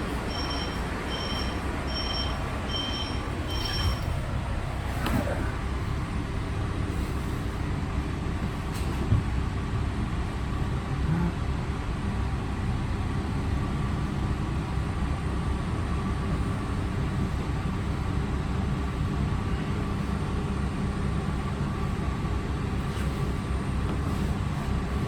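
PATCO Speedline train: a two-tone electronic chime beeps about six times in the first four seconds, then the train runs with a steady low rumble.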